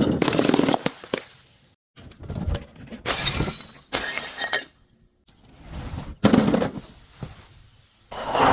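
Glass breaking and crunching in several separate bursts, with a longer stretch of grinding crunch in the middle.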